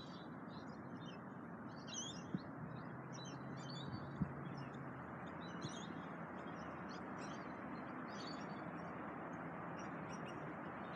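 Birds chirping repeatedly in short high calls over a steady background hiss, with two sharp knocks a couple of seconds apart early on.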